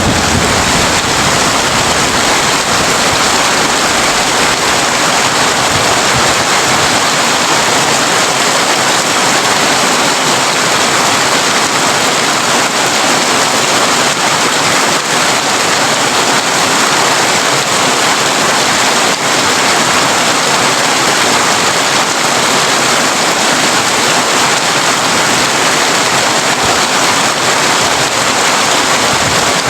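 Heavy rain drumming steadily on a tin roof, a dense even hiss. In the first several seconds a low thunder rumble dies away beneath it.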